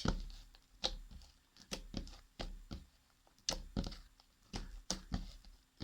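Fluffy glue-and-shaving-foam slime being squeezed and pressed in the hands, giving about a dozen sharp pops and crackles at irregular intervals.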